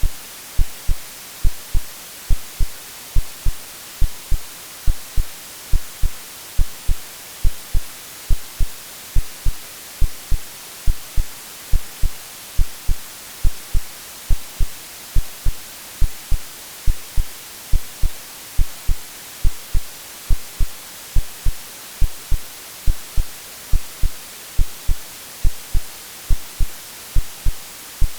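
Steady white-noise hiss layered over a synthetic heartbeat: regular low thumps about twice a second, an AI-generated womb-like sleep sound for babies.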